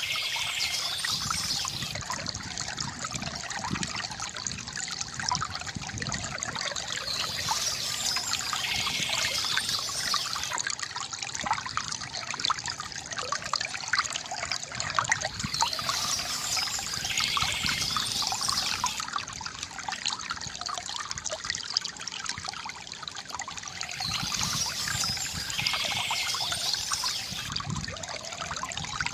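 Water trickling and splashing from a bamboo fountain, a steady gurgling stream full of small drips. Short spells of higher chirping, typical of birds, come back about every eight or nine seconds.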